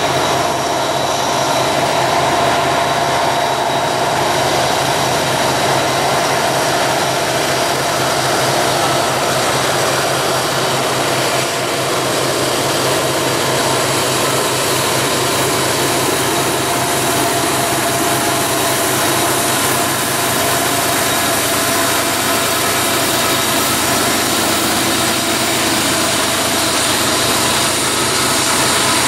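Diesel freight train locomotives working under heavy load up a steep mountain grade, a loud, steady drone with a steady high whine over it.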